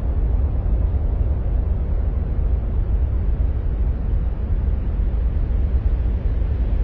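Steady, deep rumbling noise with a softer hiss above it, unchanging throughout. This is an ambient "sound of Mars" space-noise track.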